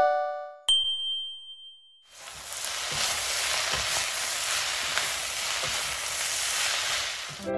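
A bell-like ding rings and fades about a second in. From about two seconds in, yakisoba noodles with cabbage and carrot sizzle steadily in a frying pan while being turned with a wooden spatula.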